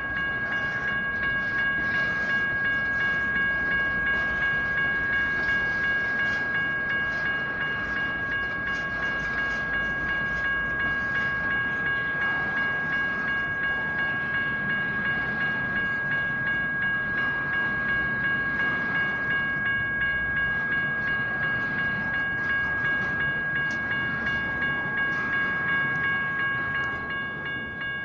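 General Signals Type 1 electronic crossing bell ringing steadily in fast repeated strokes, with a passing train rumbling and clattering over the rails beneath it.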